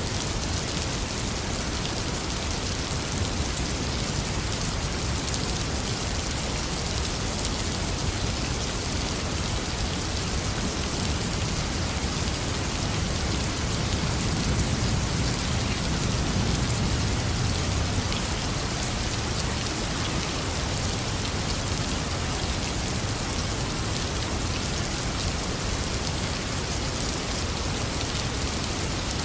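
Heavy rain falling steadily, with a low rumble of thunder that swells and fades about halfway through.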